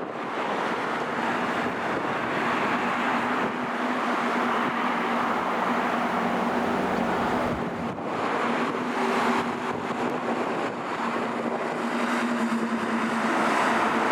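Garbage truck running with a steady hum under a broad rushing noise, dipping briefly about eight seconds in.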